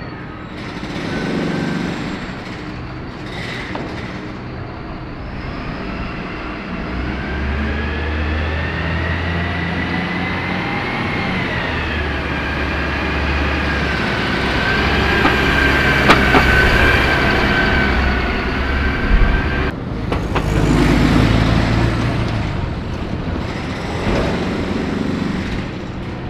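City bus running in street traffic: engine rumble with a whine that rises and then falls as it moves, a sharp click partway through, and a burst of hiss about twenty seconds in.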